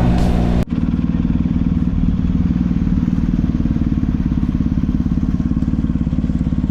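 Motorcycle engine running steadily with an even, low pulsing. Before it starts, music cuts off abruptly under a second in.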